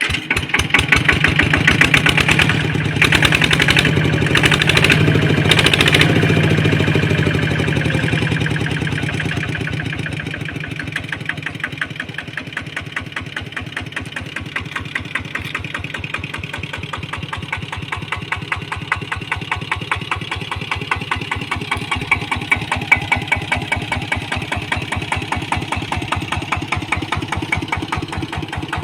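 Kubota ET95 single-cylinder diesel engine on a walking tractor running with a rapid, even chug, louder for the first several seconds and then easing to a quieter, steady idle from about ten seconds in.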